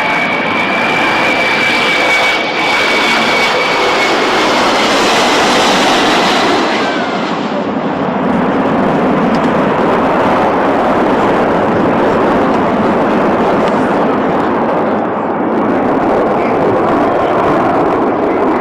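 Jet engines of an Airbus A380 running loud and steady, with a high thin whine that fades out about four seconds in, leaving an even rushing noise.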